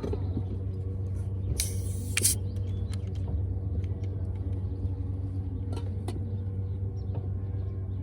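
A motor's steady low hum throughout, with a short hissing burst about a second and a half in, like a soda can being cracked open.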